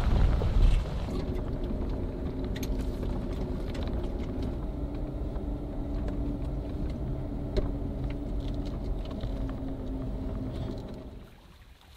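Jeep's engine running steadily with a low hum, fading out about eleven seconds in.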